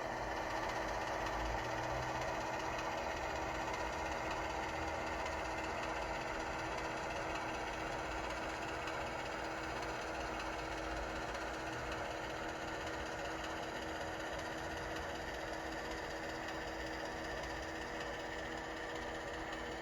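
Diesel locomotive prime mover sound from a Soundtraxx Tsunami2 DCC sound decoder in an HO scale model, running steadily through the model's small speaker.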